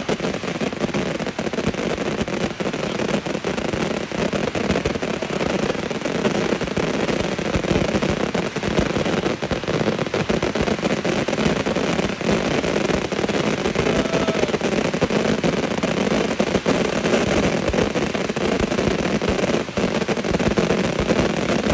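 Dozens of Transbober 144-shot firework cakes firing at once: a dense, continuous barrage of bangs and crackle with no pause.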